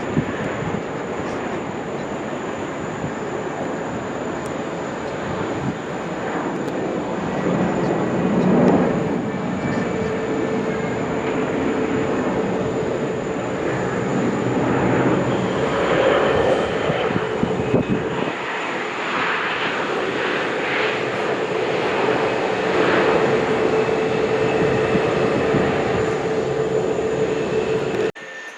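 Jet airliner engines running: a steady rushing noise with a steady whine over it, growing slightly louder, then cutting off suddenly near the end.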